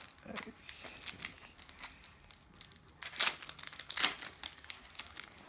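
A trading-card packet wrapper being crinkled and torn open by hand, with a run of short crackles and two louder rips about three and four seconds in.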